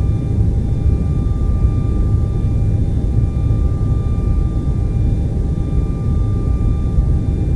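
TV static noise: a steady rushing hiss weighted toward the low end, with faint steady high whining tones running through it.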